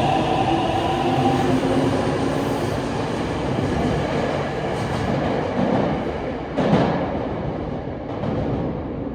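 Meitetsu electric commuter train pulling out and gathering speed: the traction motors whine and rise slightly in pitch at first, then give way to wheel rumble and clacking over the rail joints, fading as the train moves off. A sharp clank comes a little under seven seconds in.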